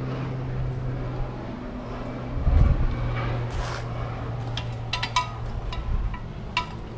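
Scrap metal items being handled and set down: a heavy thud about two and a half seconds in, then several sharp metallic clanks that ring briefly, over a steady low hum.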